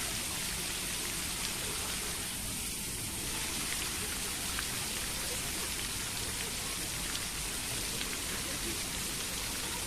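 Steady rush of running, splashing water, with faint distant voices under it.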